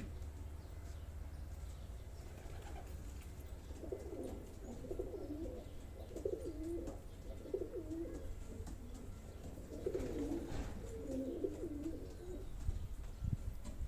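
Domestic pigeons cooing in the loft, in two bouts of low warbling coos: the first about four seconds in, the second about ten seconds in.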